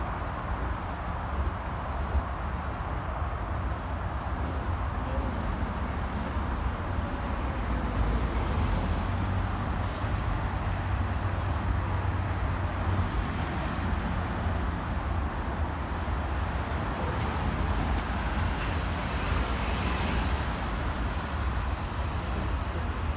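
Steady low vehicle rumble that goes on without a break, with faint short high-pitched tones coming and going over it.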